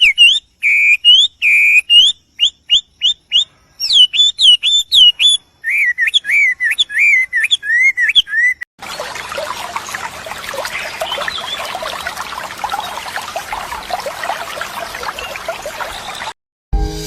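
A songbird singing loud, clear whistled notes that slur up and down, in short repeated phrases with pauses between. About nine seconds in, this gives way to a dense, continuous chatter of many birds.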